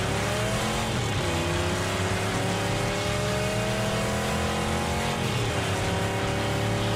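Car engine accelerating hard through the gears, its pitch climbing steadily and dropping at gear changes about a second in and again near five seconds.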